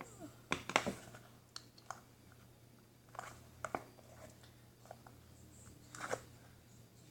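Slime being squeezed and worked by hand, giving irregular short clicks and pops: a cluster about half a second in, more around three seconds in, and another near six seconds.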